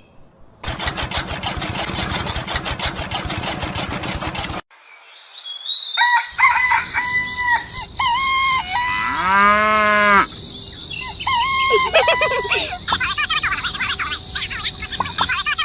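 A rapid, even mechanical clatter for about four seconds, then it cuts off. After that, a rooster crows and chickens cluck and chirp.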